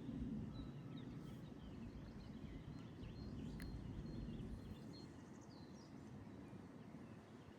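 Quiet outdoor ambience: a steady low rumble with scattered faint bird chirps.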